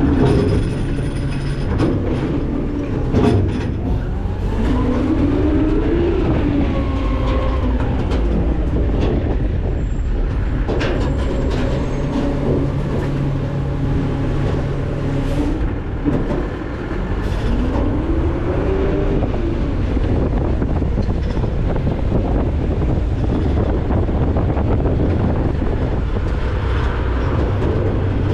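McNeilus ZR rear-loader garbage truck's engine and hydraulic packer running, with a steady low drone and metal clanks and knocks as trash is dumped into the hopper and compacted. A whine rises and falls twice as the hydraulics work.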